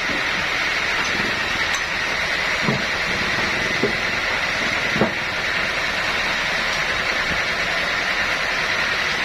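Sawmill machinery running steadily, a constant mechanical noise, with three short knocks in the middle.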